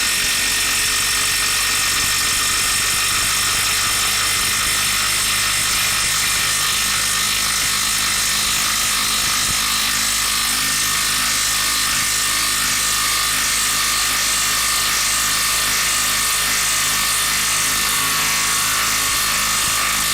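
Cordless impact tool hammering continuously on a stubborn fastener, a steady rapid rattle that stops abruptly right at the end.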